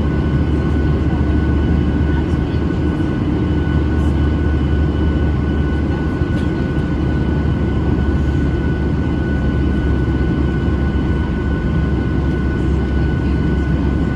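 Steady cabin noise of a Boeing 737-800 in flight: the low rumble of its CFM56 turbofan engines and airflow, with a thin steady whine above it.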